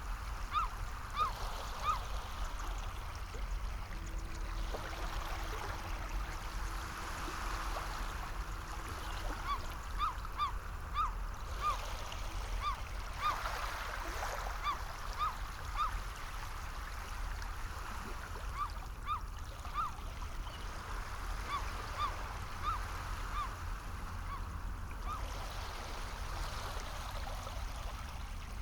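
Sea water washing in a steady, slowly swelling hiss, with birds calling over it in runs of short, quick, high calls. A faint low steady hum sounds for a few seconds about a quarter of the way in.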